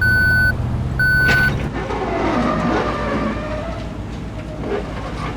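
Truck reversing alarm: two half-second high beeps about a second apart over a low engine hum, which stops shortly after the second beep. A rougher, wavering vehicle-like sound follows.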